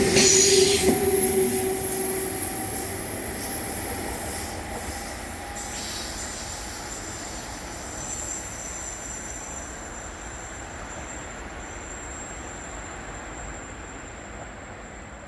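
A train moving along the station tracks, its wheels squealing with several high-pitched screeches over rolling noise. It is loudest about a second in, then fades away steadily.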